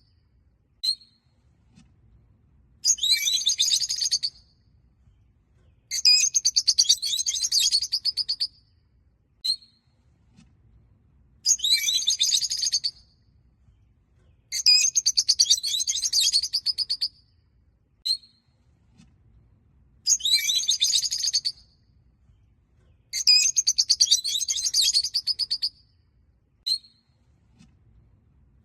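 Peach-faced lovebirds chattering: six bouts of rapid, high-pitched chirps, each lasting about two seconds, with a single short chirp in between some of the bouts.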